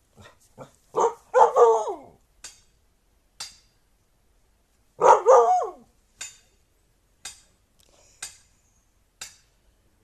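Husky vocalizing: two drawn-out calls that fall in pitch, about a second in and again about five seconds in, with short sharp sounds scattered between them.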